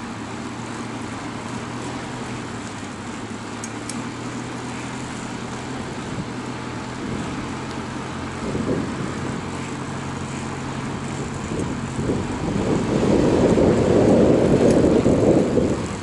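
A steady low engine hum under a rushing noise; near the end the rushing swells louder for about three seconds.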